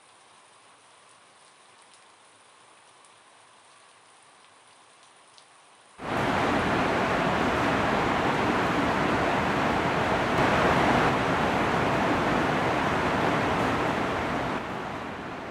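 Faint steady hiss, then about six seconds in a heavy downpour of rain cuts in abruptly and runs loud and steady, easing somewhat near the end.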